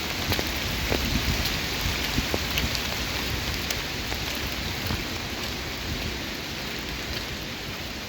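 Steady rainfall, a constant hiss with many separate raindrops ticking sharply.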